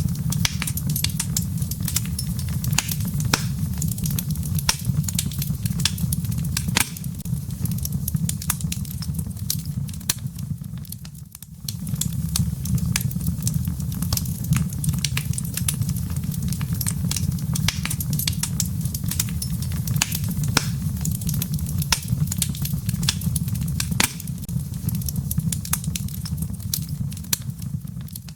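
Wood logs burning in a fireplace: a dense run of sharp crackles and pops over a steady low rumble of the flames. It dips briefly about eleven seconds in.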